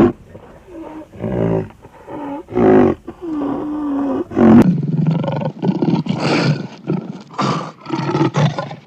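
A series of animal calls: a few separate calls, one of them a steady pitched call, then from about halfway a run of rough, repeated big-cat roars that stops just before the end.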